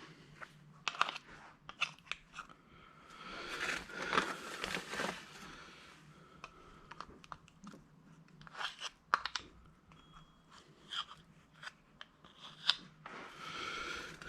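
Irregular clicks, taps and short scrapes of hand tools on the metal parts of an old electric angle grinder being dismantled, with two longer scraping stretches, one about four seconds in and one near the end.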